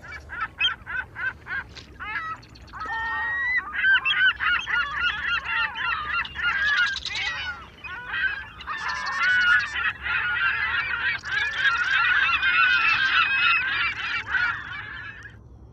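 A flock of geese honking: separate calls at first, then many overlapping honks in a dense chorus that stops abruptly near the end.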